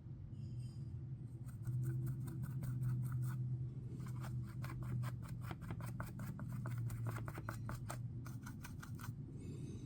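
A small brush dabbing and scratching mica powder into a silicone mould: quick repeated scratchy strokes, several a second, in runs with short pauses, over a steady low hum.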